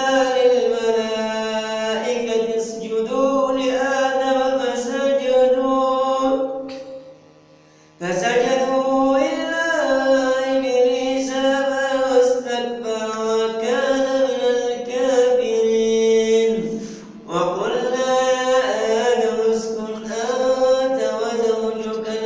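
A man reciting the Quran in the melodic, drawn-out style of tajweed, holding and bending long notes. The recitation breaks off for a breath about seven seconds in, and pauses briefly again about seventeen seconds in.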